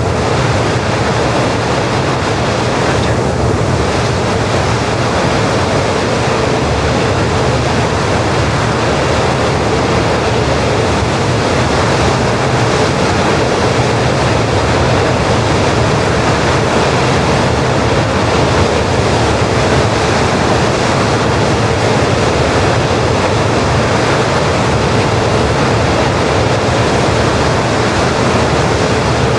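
Jet engine noise, a loud and steady roar with a faint high whine held throughout.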